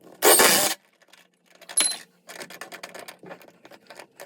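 A short, loud rush of noise about a quarter second in, then a sharp click and a run of light metallic clicks and rattles, like metal parts or tools being handled.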